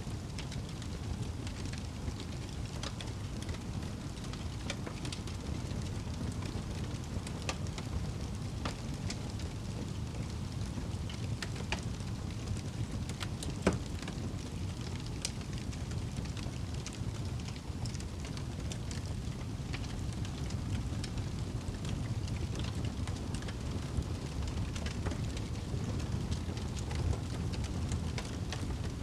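Wood fire crackling in a fireplace: a steady low roar of the flames with scattered sharp pops and snaps, one louder pop about halfway through.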